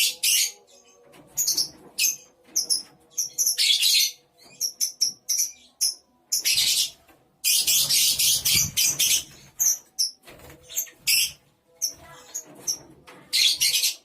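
A colony of lovebirds calling in rapid, shrill bursts, several running on for a second or more.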